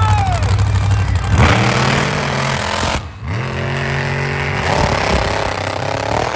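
Monster truck engine revving up, cutting off abruptly for a moment about three seconds in, then climbing in pitch again.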